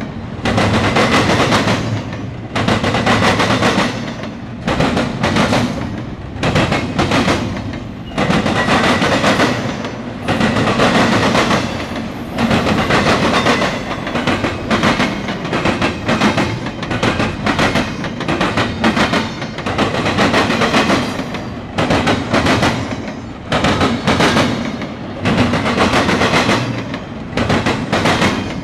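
Double-stack intermodal well cars of a freight train rolling past close by, the wheels clattering on the track. The clatter rises and falls in pulses about every two seconds as each car's wheel sets go by.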